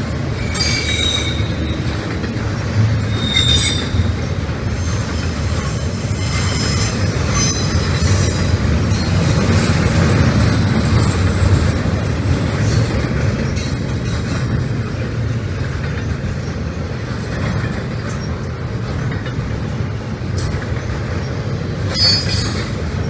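Double-stack intermodal freight train rolling past: a steady rumble of steel wheels on the rail, broken by brief high-pitched wheel squeals near the start, about three and a half seconds in, around seven seconds in, and again near the end.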